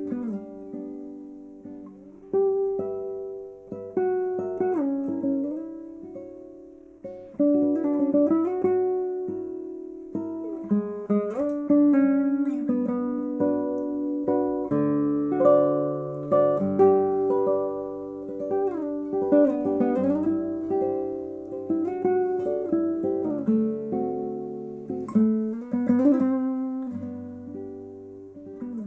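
Martinez MC-58 nylon-string classical guitar, with a solid top and rosewood back and sides, played solo fingerstyle: a flowing melody over ringing bass notes, with notes sliding in pitch here and there.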